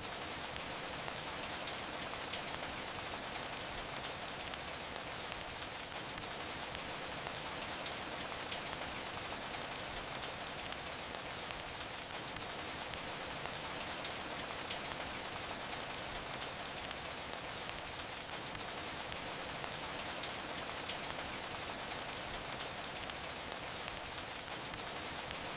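Steady rain falling, an even hiss, with occasional sharp crackles and pops from a wood fire at irregular moments.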